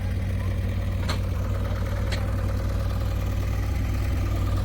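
Diesel engine of heavy farm or earthmoving machinery idling steadily, with two short sharp clicks about a second apart.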